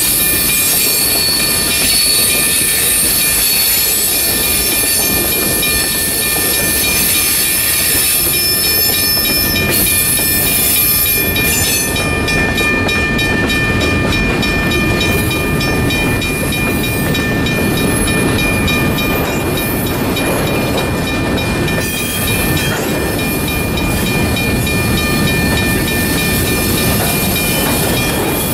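Boxcars of a freight train being shoved slowly around a curve, their wheels rumbling on the rails while the wheel flanges squeal in several steady high tones. The low rumble grows heavier in the second half as the pushing diesel locomotive draws near.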